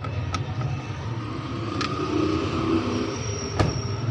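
Steady low background rumble, like traffic or a running machine, with three sharp clicks or taps spaced about a second and a half apart and a faint high whine near the end.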